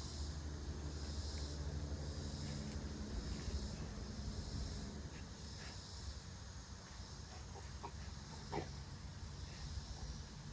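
Insects chirping in a steady, pulsing background drone, with a low buzzing of bees at the flowers through the first half. A short sharp sound cuts in once, a little after two-thirds of the way through.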